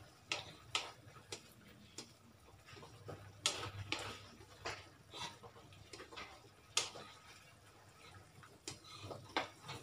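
Slotted spatula knocking and scraping against a metal wok while pork pieces in sauce are stirred: irregular light clicks, about one or two a second.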